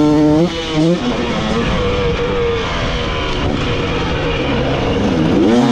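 Dirt bike engine under hard throttle on a motocross track: the revs cut briefly twice in the first second, as on shifts or throttle chops, settle to a steadier lower note, then climb again near the end, over heavy wind noise.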